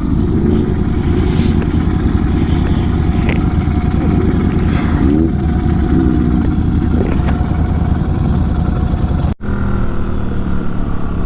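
Motorcycle engine running steadily while riding, with a loud, dense low rumble. The sound drops out sharply about nine seconds in and comes back changed.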